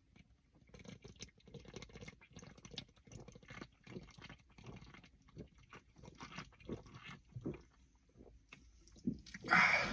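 Sipping and swallowing a canned mojito, with small wet mouth sounds and clicks of the can. About nine and a half seconds in comes a short, louder breathy rush.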